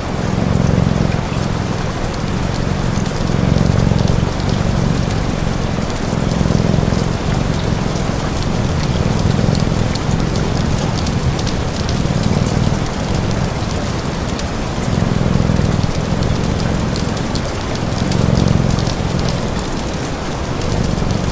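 Steady rain hiss layered with a cat's purr that swells and fades in a slow rhythm, about one cycle every three seconds, with fine crackling ticks over the top.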